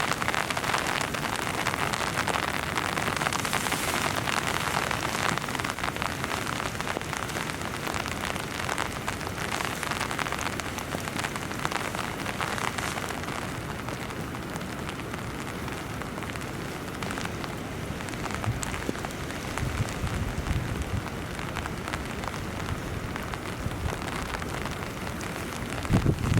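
Heavy rain falling steadily on a tent's fabric, easing slightly after the first half, with a few low thumps near the end.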